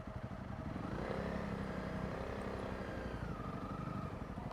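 Honda CRF300 Rally's single-cylinder engine running at low speed, its revs rising about a second in and then settling.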